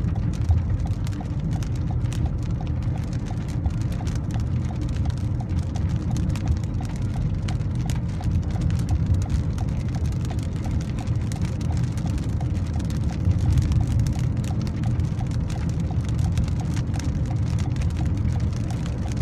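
Rain pattering on a car's windshield and roof while driving, heard from inside the cabin, over a steady low rumble of road and engine.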